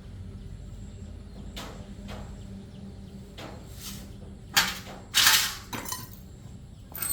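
Metal tools and parts being handled during motorcycle repair work: scattered clicks and knocks over a steady low hum. A sharp knock comes a little past halfway, followed by a brief, louder clattering rattle.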